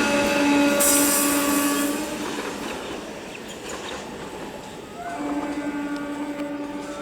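Indian Railways EMU local train running past and fading away, with its horn sounding twice: one steady blast that stops about two seconds in, and a second that starts about five seconds in.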